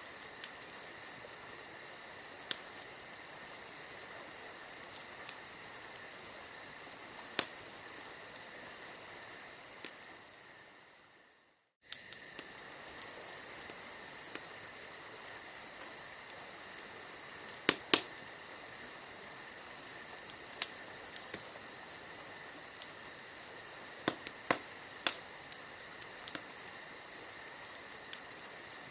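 Campfire crackling with scattered sharp pops, over a steady high chirring of crickets. The sound fades out about ten seconds in, is silent for a moment, then cuts back in abruptly.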